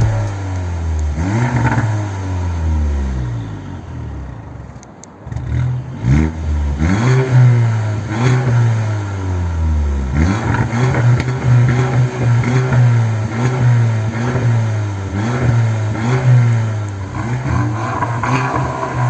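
Audi A6 C8 2.0 TFSI turbocharged four-cylinder revved repeatedly through an aftermarket adjustable exhaust with valves, engine speed rising sharply and falling back in a steady series of blips. There is a short lull about four to five seconds in.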